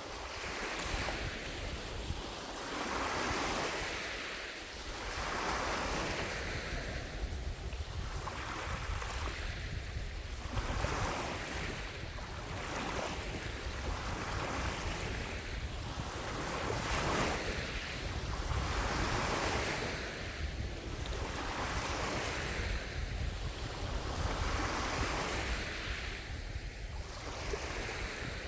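Small lake waves lapping against the shore, one soft wash every second or two, with a low rumble of wind on the microphone underneath.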